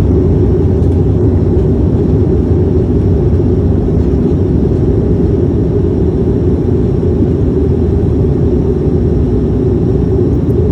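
Steady low rumble of a passenger airliner heard from inside the cabin, holding level without rising or falling.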